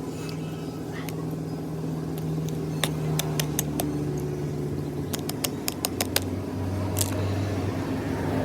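Ashok Leyland truck's diesel engine running steadily, its pitch settling lower about five seconds in. A quick series of sharp metallic clicks sounds over it in the middle.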